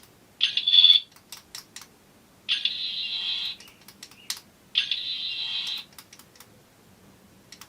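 Toy sonic screwdriver buzzing in three bursts of about a second each, with sharp button clicks between them.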